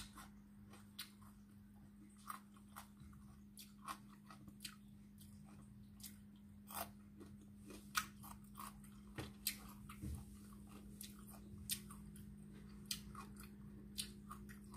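A person chewing and crunching food close to the microphone: faint, irregular crunches and mouth clicks, over a steady low hum.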